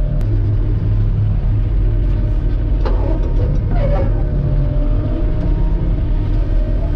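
Claas Dominator 85 combine harvester working under load, heard from inside the cab: a loud, steady engine and machinery drone, with a brief higher rattle about three to four seconds in.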